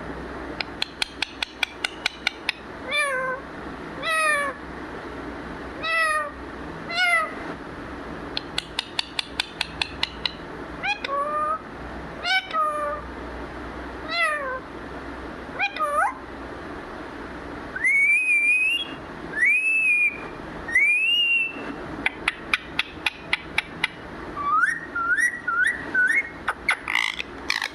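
Pet green parrot calling: repeated falling, meow-like calls broken up by fast runs of clicks. About two-thirds in come three loud whistled calls that rise and then drop, followed near the end by a quick series of short rising notes.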